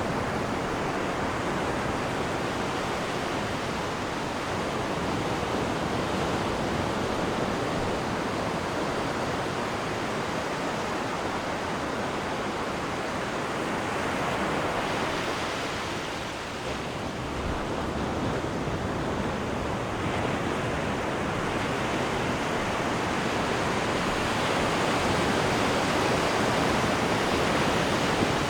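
Steady rush of churned seawater in the wake behind a cruise ship's stern, dipping briefly a little past halfway and swelling again near the end.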